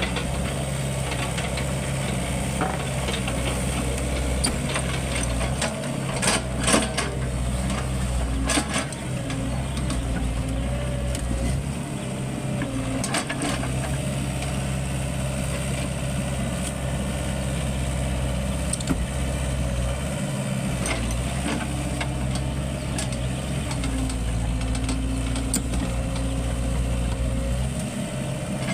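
Excavator's diesel engine running steadily, with a low drone throughout. Metallic clanks and knocks come in a cluster around six to nine seconds in and again near thirteen seconds.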